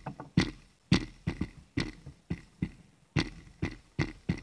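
Moving train carriage rattling, with a run of sharp knocks two or three a second at uneven spacing.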